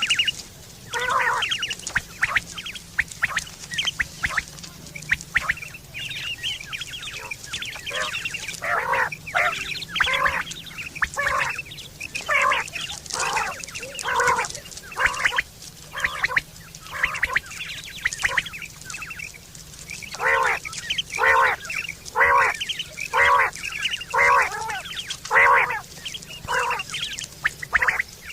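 Quail calling over and over: short, harsh, pitched notes about twice a second in runs, the loudest run in the later part. This is the kind of quail call played to lure quail for hunting and mating.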